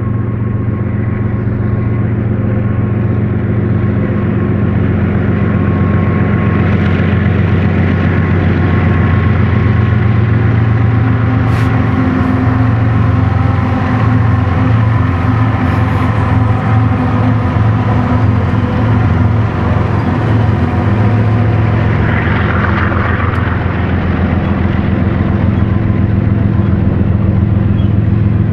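BNSF GE diesel locomotives hauling a double-stack intermodal train past at close range: a loud, steady engine drone with wheels running on the rails, and a few sharp clicks.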